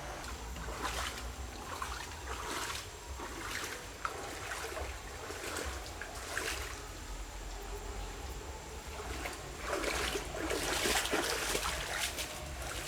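Water splashing and sloshing in irregular surges, heavier and longer for a couple of seconds near the end.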